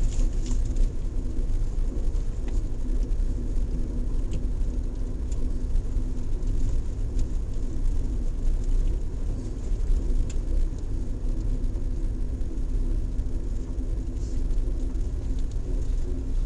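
Suzuki Jimny JB64 driving on an unpaved forest road: a steady low rumble from its engine and tyres, with a constant engine tone. Scattered small clicks and ticks come through the rumble.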